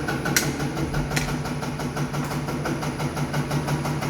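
Diesel injection pump test bench running steadily with a rapid, even pulsing over a low hum. Two sharp clicks come in the first second or so.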